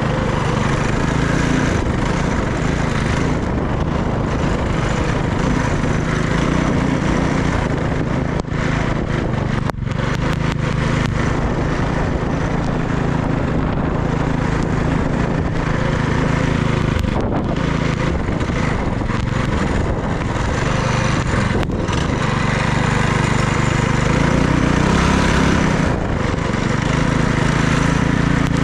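Small minibike engine running while riding, its pitch rising and falling with the throttle and climbing for a few seconds near the end.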